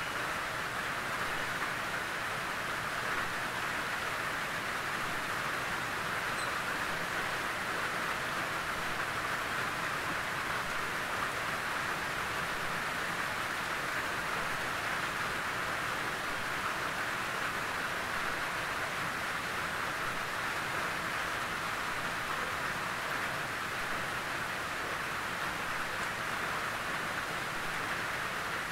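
Steady rain falling on a tin roof: an even, unbroken patter and hiss.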